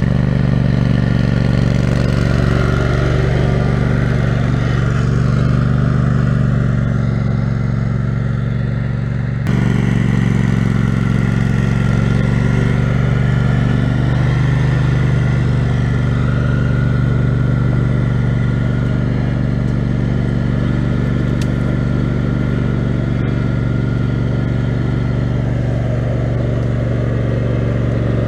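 Kohler 18 HP Command engine of an offroad lawn mower running steadily at a constant speed, with an abrupt jump in the sound about nine seconds in.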